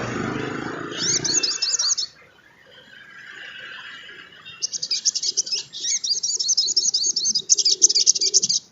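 Sogon trotol sunbird singing a high, rapid twittering song: a short burst about a second in, then a long fast run of chirps from about four and a half seconds that cuts off suddenly near the end. A low rumble underlies the first two seconds.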